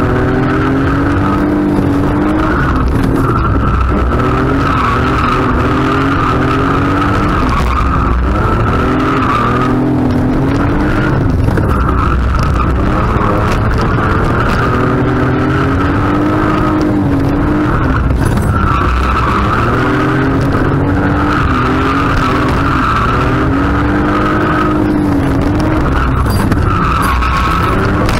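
BMW E36's 2.5-litre straight-six heard from inside the cabin, revving up and down over and over while the tyres squeal almost without a break, as in a drift run.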